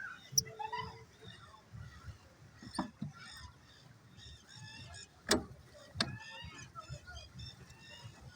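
Waterfowl calling repeatedly, with goose-like honks among many short, higher bird calls, over a low rumble. Two sharp knocks sound about five and six seconds in.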